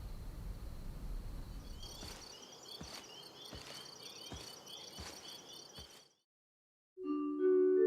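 A low rumble fades out. Then comes insect-like chirping with a soft knock about every three quarters of a second, which cuts off about six seconds in. After a moment of silence, sustained chime-like music notes begin near the end.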